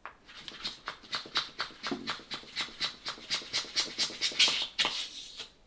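Hand balloon pump worked very fast, its rapid strokes pushing air in quick hissing puffs at about five a second, stopping abruptly near the end, as a twisting balloon is inflated.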